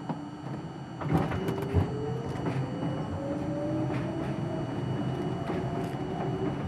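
R42 subway train's traction motors whining and rising slowly in pitch as the train picks up speed. A loud knock comes about two seconds in, with scattered clicks of wheels over rail joints.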